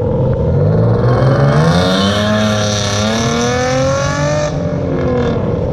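Car engine revving hard as the car accelerates away, its note climbing for about two seconds and then holding, with a loud hiss over it that cuts off suddenly about four and a half seconds in.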